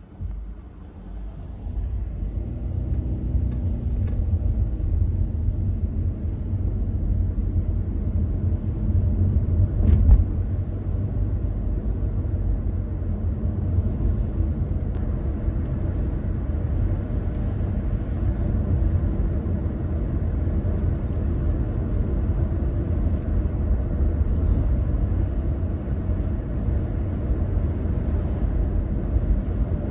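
Car driving along with a steady low road-and-engine rumble that swells over the first couple of seconds, and a single knock about ten seconds in.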